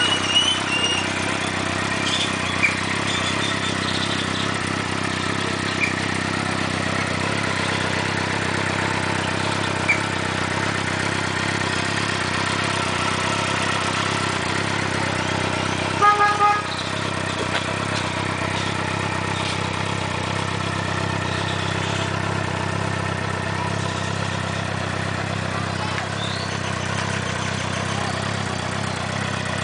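2006 Suzuki GSX-R motorcycle's inline-four engine idling steadily. A short horn toot sounds about sixteen seconds in and is the loudest moment.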